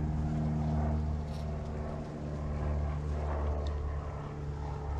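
Honeybees buzzing around the open hive: a steady, fairly loud droning hum.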